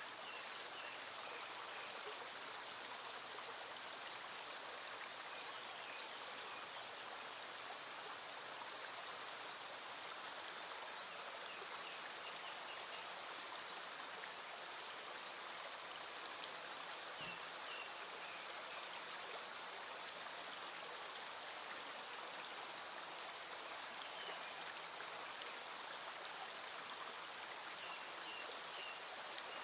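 Small stream flowing steadily, with rain falling. A few short, faint high chirps come now and then.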